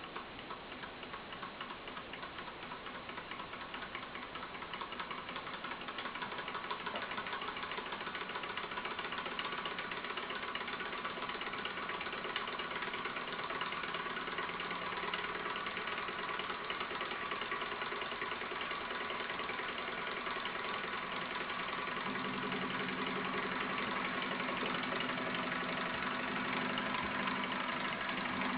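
Gamma-type Stirling engine running with a fast, even mechanical clatter. It grows louder over the first several seconds and then holds steady, and a steady low hum joins in the last quarter.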